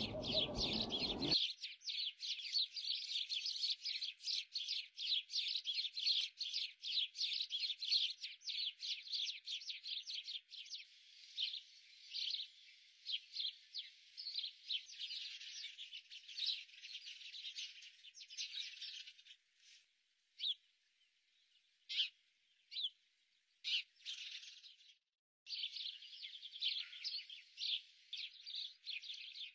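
Dense, rapid chirping of small birds, many short chirps a second, thinning out in the second half and stopping briefly before picking up again near the end. A fuller background sound underneath cuts off abruptly about a second in.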